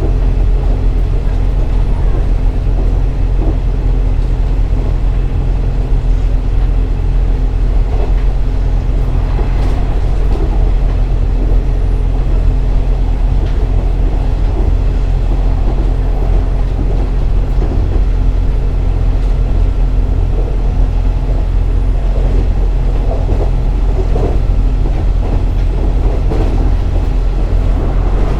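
KiHa 47 diesel railcar running along the line with its diesel engine humming steadily under a continuous running rumble.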